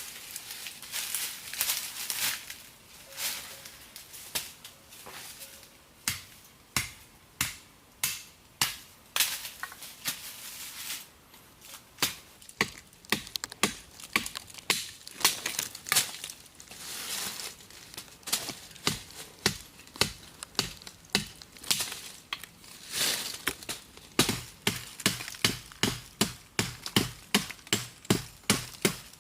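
Repeated chopping strikes, irregular at first, then a quicker, even run of about three a second near the end.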